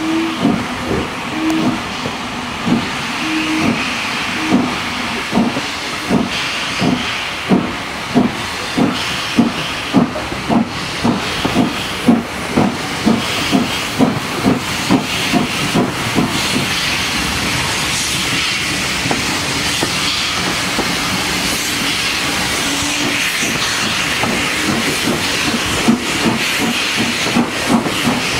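Steam locomotive 30777 Sir Lamiel, an N15 King Arthur class 4-6-0, working with regular exhaust beats over a steady steam hiss. The beats quicken from under two to about three a second, fade into the hiss past the middle, and return near the end.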